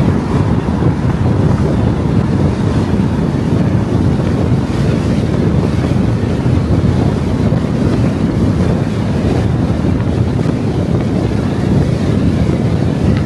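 Steady rumble of road and wind noise from a car driving along the road, with no distinct events.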